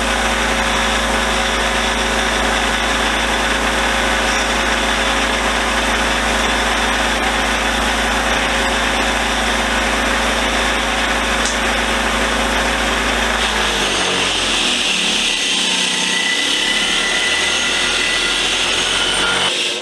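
Motor-driven wire wheel running against a cast-iron vise, scrubbing off old layers of paint: a steady hum under a dense scraping hiss. About fourteen seconds in, the low hum drops away and a higher, brighter hiss takes over.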